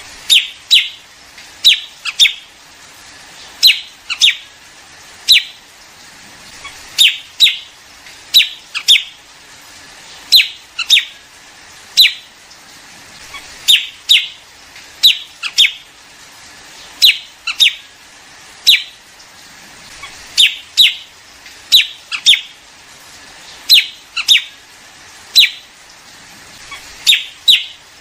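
Liếu điếu bird calls: short, sharp, loud notes in ones, twos or threes, repeating about every second and a half. This is a recording used as a lure to call a flock in.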